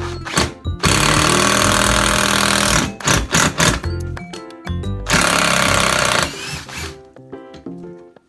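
Cordless impact driver run in two bursts of about two seconds each, over background music.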